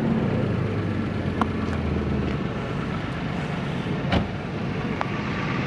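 Toyota GR Corolla's turbocharged 1.6-litre three-cylinder engine idling steadily, its low hum easing a little about two seconds in. A sharp click about four seconds in.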